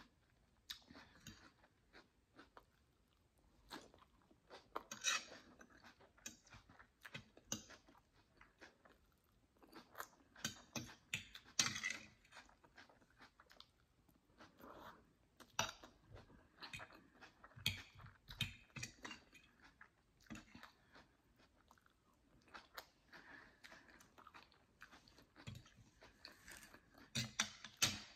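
Close-miked chewing of a mouthful of jerk chicken with rice and beans, with irregular crunches and sharp wet clicks.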